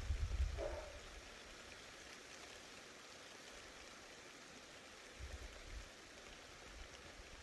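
Steady rain falling as an even hiss, with a brief low rumble in the first second and again about five seconds in.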